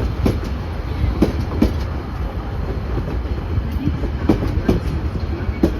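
Locomotive-hauled passenger train rolling by on departure: a steady low rumble with irregular sharp clicks of wheels over rail joints.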